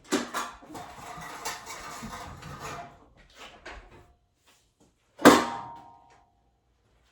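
Metal gym weights clanking: a knock and about three seconds of rattling, then about five seconds in a loud metal clang that rings on briefly as the weight is set down hard.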